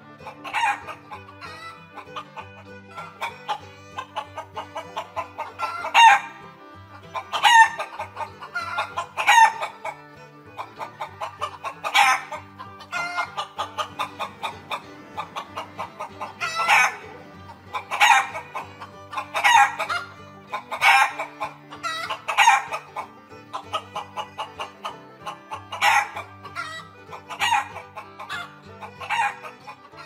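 Chickens clucking and cackling in loud, repeated calls every second or two, over quiet background music.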